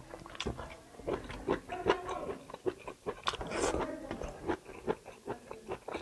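Close-miked chewing of tough kalij pheasant meat from a curry: irregular wet smacks and small clicks of teeth and lips, several a second.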